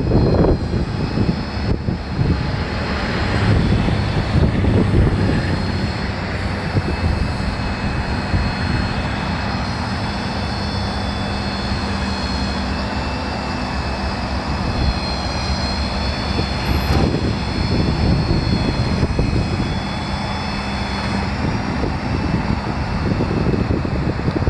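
A Ford 6.7-litre turbo diesel truck engine running steadily, with several high, steady whining tones over its drone.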